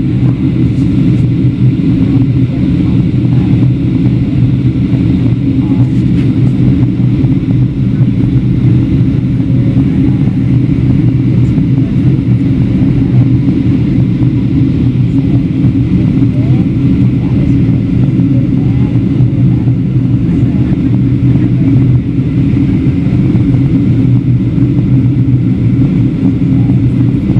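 Steady low rumble inside the cabin of a Boeing 737-700 in descent: its two CFM56-7B engines running and air rushing over the fuselage, unchanging throughout.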